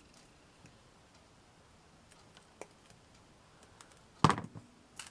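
Quiet handling with a few faint metal clicks, then a sharp snip about four seconds in followed by a few small clicks: cutters snipping through a length of fine craft chain.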